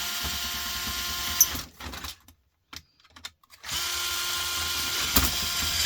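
Power drill-driver running in two bursts, about a second and a half then, after a pause, about two seconds, with a steady motor whine, as screws are driven out of electronics being torn down.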